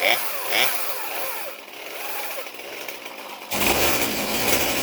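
Poulan two-stroke chainsaw engine running, its speed rising and falling. About three and a half seconds in it turns suddenly much louder and harsher.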